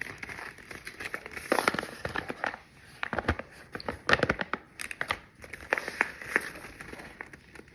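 Close-up crunching of raw, uncooked rice grains being chewed, a rapid crackle of sharp little cracks coming in clusters with short gaps between.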